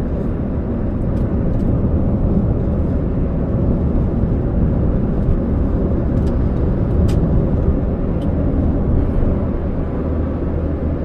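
Toyota Allion being driven: steady low road and engine rumble, with a few faint, scattered ticks.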